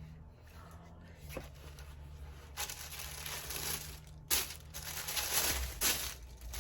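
Paper packaging crinkling and rustling as a package is unwrapped, in several bursts from about two and a half seconds in.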